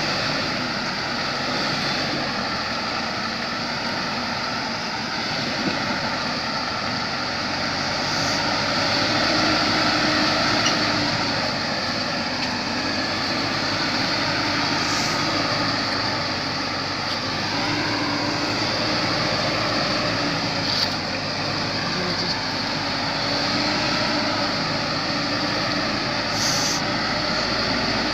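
Vehicle engine running steadily, its pitch wavering slowly up and down, under a constant hiss of road noise.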